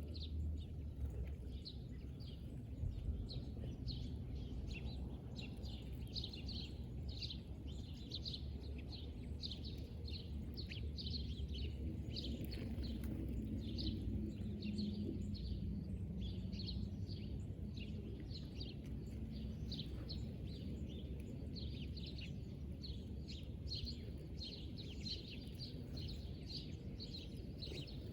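Small birds chirping, many short quick calls on and off, over a steady low background rumble.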